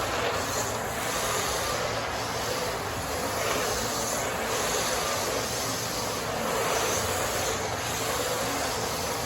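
Kyosho Mini-Z RC cars driving: a steady whirr of their small electric motors and tyres, swelling and easing a little as they speed up and slow down.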